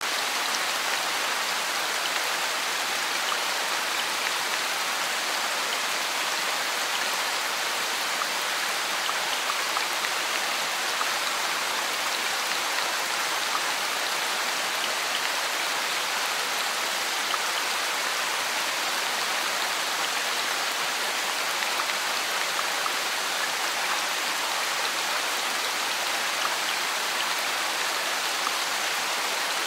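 Heavy rain pouring steadily onto a wet paved street: a dense, even hiss with a fine patter of individual drops.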